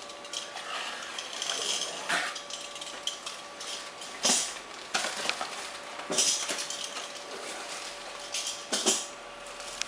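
Packaging rustling and crinkling as a foam RC glider wing is lifted out of its taped-in box, with several sharper scrapes and knocks scattered through.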